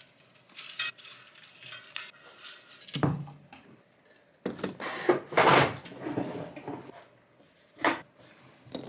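Small household items being handled and set down on a tabletop: clinks, rustles and knocks, with a dull thud about three seconds in, a longer, louder clatter around five seconds in, and a sharp knock near the end.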